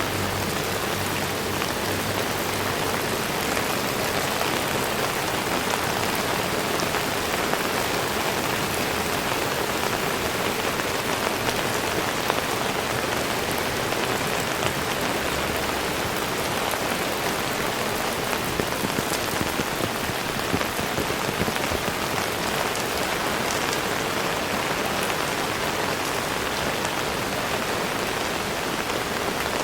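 Heavy rain falling steadily: a dense, even hiss of drops with scattered sharper ticks of single drops striking nearby surfaces.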